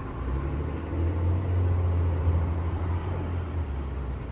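Heavy road vehicle passing close by, its engine a deep low hum that swells about a second in and fades near the end.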